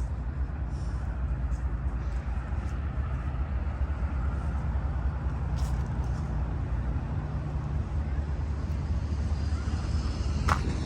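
Steady low rumble of a GE diesel locomotive working as the rear distributed power unit of a BNSF freight getting underway, with a short click near the end.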